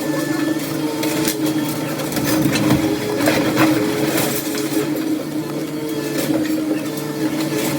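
Heavy demolition machinery running steadily, with a steady tone that comes and goes and scattered knocks and clanks throughout.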